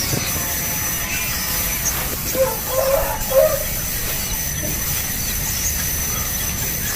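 Birds calling over a steady hiss: scattered short, high chirps, and a brief cluster of lower calls about two and a half to three and a half seconds in.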